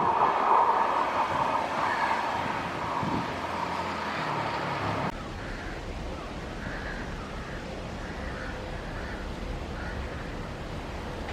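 Train running on the rails with a steady noisy rush, which cuts off abruptly about five seconds in to a quieter, lower rumble of a train.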